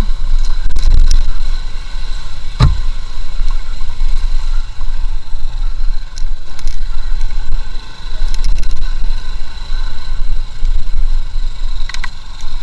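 Motorcycle being ridden, with its engine running under a heavy low rumble of wind on the microphone and one sharp knock about two and a half seconds in.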